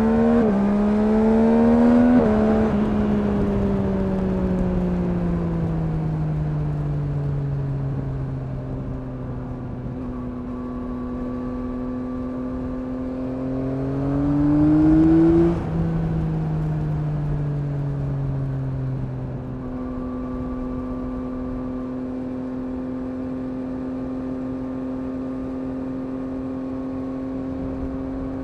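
2021 Yamaha MT-09's 890 cc three-cylinder engine pulling hard with quick upshifts in the first couple of seconds, then its pitch falling slowly as the bike slows. It rises again for a couple of seconds before cutting off sharply, and near the end settles into a steady cruise.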